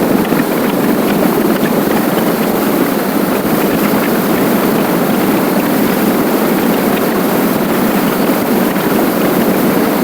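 Steady rush of wind and road noise on a camera microphone while riding a motorcycle at speed.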